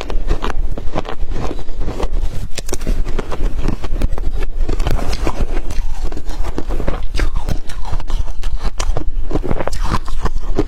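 Close-up crunching of water-dipped shaved ice as it is bitten and chewed, a steady, dense run of irregular crackles and crunches.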